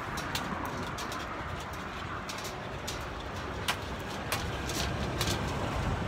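Irregular sharp clicks and taps of puppies' claws on a metal bridge deck, over a steady low rumble of traffic.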